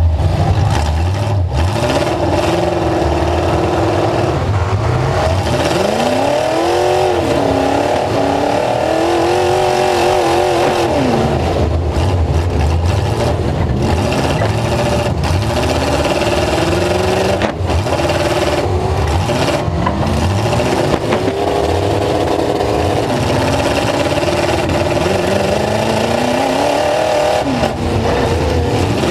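Full-size pickup truck engine revving hard and continuously, its pitch repeatedly climbing and dropping as the throttle is worked, with scattered sharp knocks over it.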